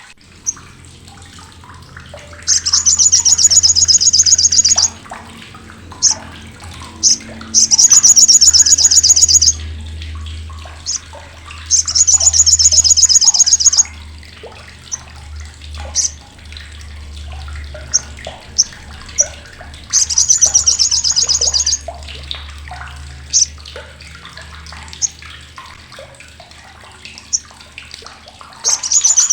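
Olive-backed sunbird (sogok ontong, sriganti) giving its loud, harsh, sharp rapid chattering call (crecetan): four buzzing trills of about two seconds each, with single sharp chips between them.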